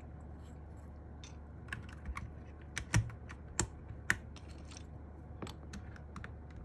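Scattered plastic clicks and clacks from mechanical keyboard keycaps and switches being handled. Three louder clacks come a little past the middle.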